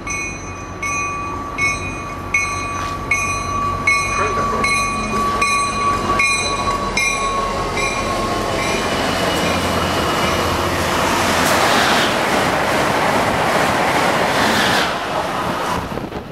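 A bell rings about once every 0.7 s for the first half. Then an MBTA commuter rail train rushes past the platform at speed, its noise building through the second half and loudest near the end.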